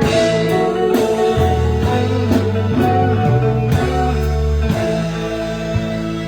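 Live band playing the instrumental end of a song, with guitar and bass and no singing.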